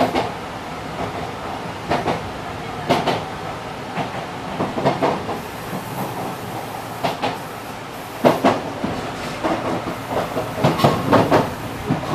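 Enshu Railway 2007F electric train running along an elevated line, heard from inside the front of the car: a steady running rumble with irregular sharp clacks of the wheels on the rails, bunched near the end.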